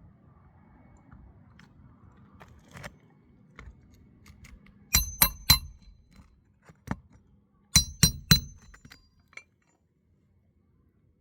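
Hammer driving roofing nails into asphalt shingles: two quick sets of three sharp, ringing blows, with a few lighter taps between.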